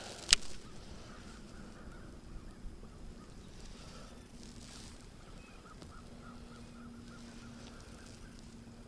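A single sharp click about a third of a second in, then faint bird calls, with a quick run of repeated short notes in the second half.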